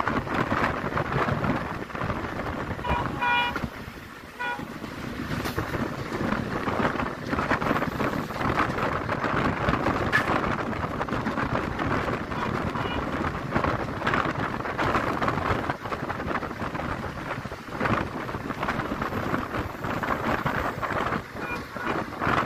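Passenger train running at speed, heard from an open coach doorway: a steady rumble of wheels on rail mixed with rushing wind. Brief short tones about three seconds in.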